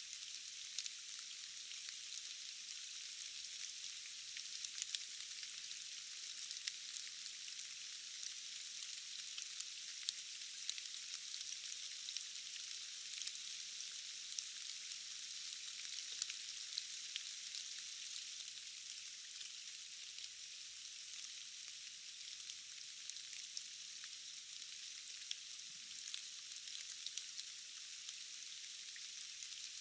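Steady hiss of rain with many small, sharp drop ticks scattered through it, all high and thin with no low rumble.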